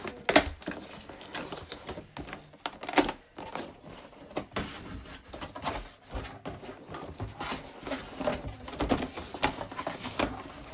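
Coffee machine packaging being opened and handled: irregular rustling, clicks and knocks, the loudest about a third of a second in and about three seconds in.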